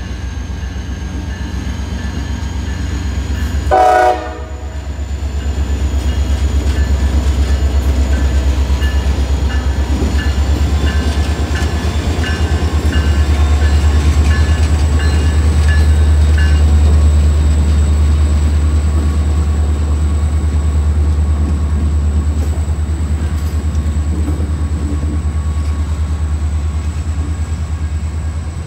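CSX freight diesel locomotives pass close with a loud, steady engine rumble, with one short horn blast about four seconds in. A General Signals Type 1 electronic crossing bell rings in repeated dings until about halfway through. Empty grain hopper cars then roll by with wheel clatter.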